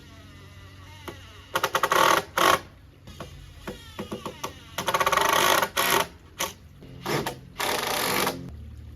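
Handheld power driver run in short bursts, about five times, each half a second to a second long, with light clicks in between.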